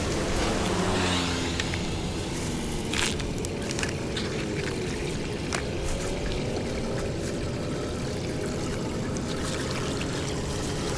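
Floodwater pouring and running steadily, with an engine's hum underneath that dips and rises in pitch around the middle.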